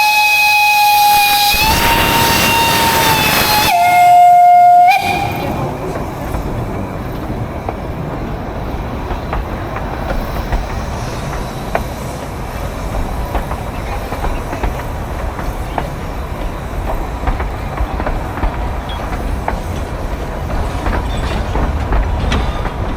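Narrow-gauge steam locomotive blowing its whistle with a hiss of steam, ending in a louder, lower blast about four seconds in. The train then runs on with a steady rumble and faint clacking of the wheels.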